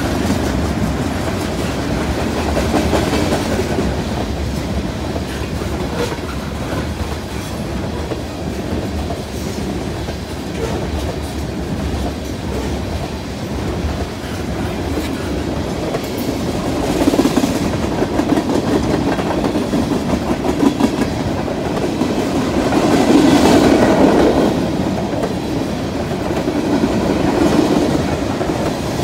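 Freight cars of a passing train rolling by at trackside, mostly tank cars then a covered hopper and boxcars, their steel wheels clattering steadily on the rails. The clatter swells louder twice in the second half, with a few sharp knocks.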